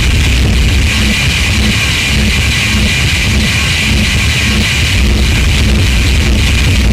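Harsh noise music: a loud, unbroken wall of distorted noise, with a heavy low rumble and a harsh, hissing upper band, and no breaks or pauses.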